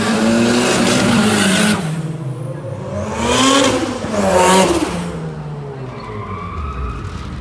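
Car engines revving hard as the cars drive past, pitch climbing and dropping in several surges, loudest between about three and five seconds in, then fading away.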